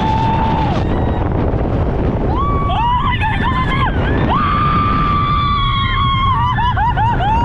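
Roller coaster riders screaming, several long held screams overlapping and wavering near the end, over a steady loud rush of wind across the microphone.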